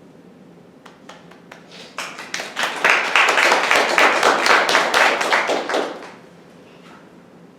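Concert audience applauding: a few scattered claps build into steady applause that dies away about six seconds in.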